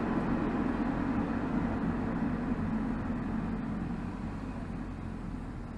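BMW 320xd's 2.0-litre four-cylinder turbodiesel (B47D20) running while driving, heard at the exhaust tailpipe with tyre and road noise. The note grows steadily quieter through the second half as the car eases off.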